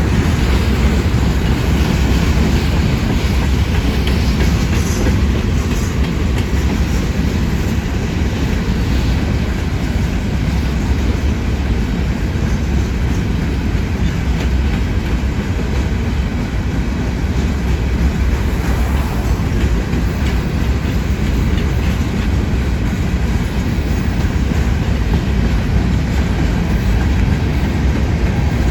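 Empty rock train's freight cars rolling past at steady speed, a continuous rumble with wheels clacking over the rail joints.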